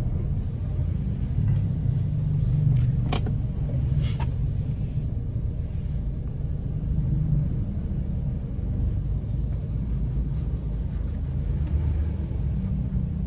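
Steady low rumble of a stationary car's engine idling with the air conditioning running, heard inside the cabin. A couple of faint light clicks come about three and four seconds in.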